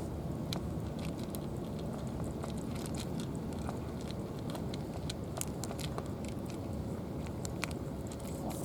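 Cats crunching dry food: many irregular sharp crunches over a steady low rumble.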